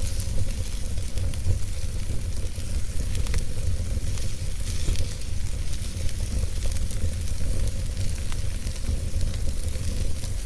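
Wood fire burning in a fireplace: scattered sharp crackles and pops over a steady hiss, with a low rumble underneath.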